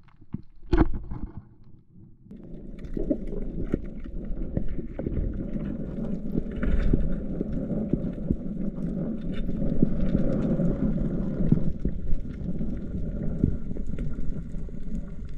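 Water heard through an underwater camera: a muffled, churning rumble with many small clicks and bubbling sounds, starting about two seconds in after a single sharp knock.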